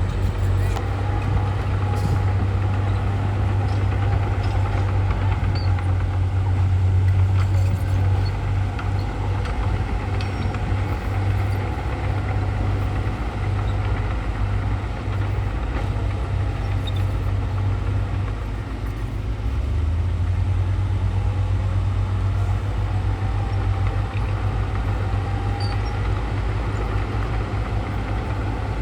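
Heavy diesel earthmoving machinery running steadily under work, a deep engine drone with a faint wavering whine above it; the drone eases briefly about two-thirds of the way through.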